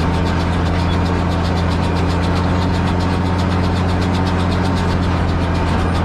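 Same Titan 160 tractor's diesel engine running steadily at a constant speed, with no change in revs.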